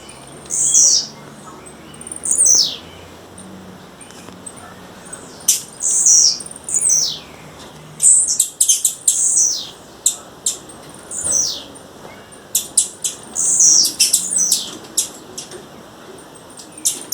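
Female blue-black grassquit (tiziu) calling: a string of high, down-slurred call notes a fraction of a second long, repeated irregularly and mixed with short sharp clicks.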